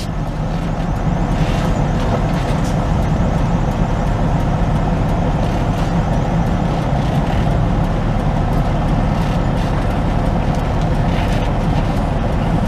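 Semi-truck's diesel engine running steadily at low speed, heard from inside the cab as a constant low hum.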